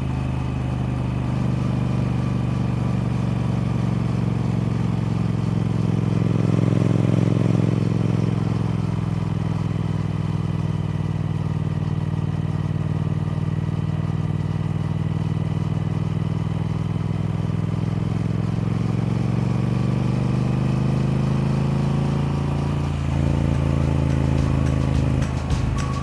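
Triumph Speed Twin's parallel-twin engine running at a fairly steady speed. Its pitch rises briefly about seven seconds in, settles, and climbs again near the end.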